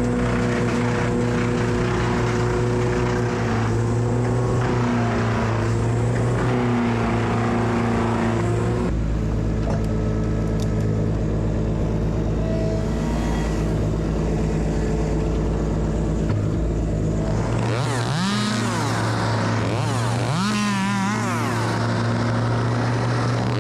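An engine running steadily, then revved up and down several times over the last five seconds.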